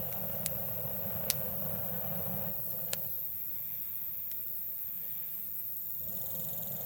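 Wood campfire burning: a steady low rush, broken by a few sharp crackling pops, about five in all. The rush thins a little about three seconds in.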